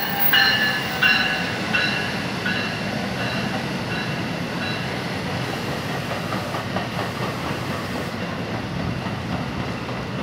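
NJ Transit bi-level commuter coaches rolling past as the train pulls into the station, a steady rumble of wheels on rail. Over the first five seconds a ringing tone repeats about every 0.7 s, loudest near the start and fading away.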